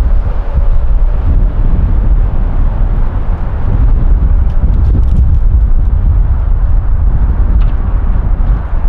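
Airbus A330's Rolls-Royce Trent 700 turbofan engines at go-around power, a loud, steady jet rumble, with wind buffeting the microphone.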